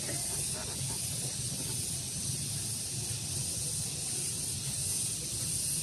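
Outdoor daytime ambience: a steady high-pitched insect drone that swells and fades slightly, over a low rumble of breeze on the microphone.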